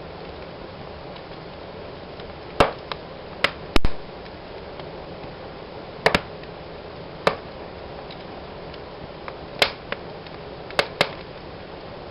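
Wood fire in a fireplace crackling: about ten sharp pops at irregular intervals, some in quick pairs, over a steady soft hiss of burning.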